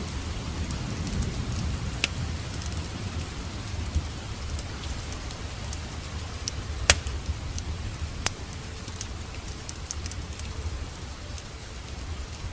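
Steady rain with a low rumble underneath and a wood fire crackling, giving scattered sharp pops; the loudest pop comes about seven seconds in, with another just over a second later.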